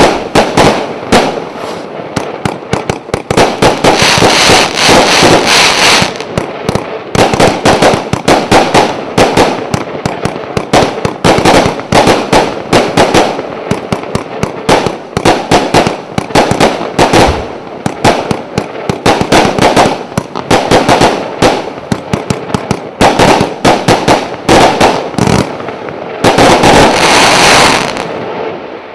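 A 150-shot "Bermuda Triangle" firework cake firing a barrage of shots, several a second. There is a dense crackling volley about four seconds in, and a final dense volley near the end, after which the firing stops.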